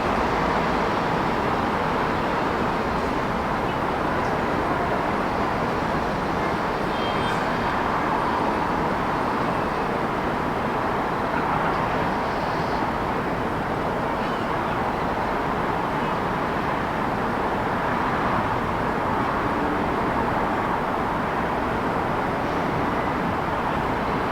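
Steady city road-traffic noise: a continuous wash of passing vehicles with no single vehicle standing out.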